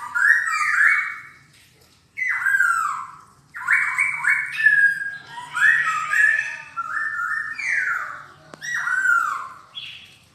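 Black-throated laughingthrush singing loud phrases of whistled notes and falling glides, with a pause of about a second near the start.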